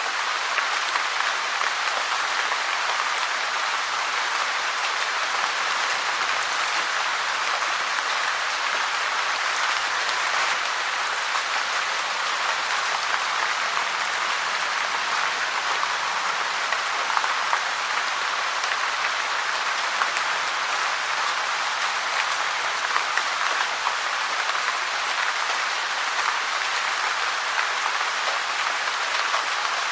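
Steady rain falling, an even hiss with dense small pattering drops and no change in strength.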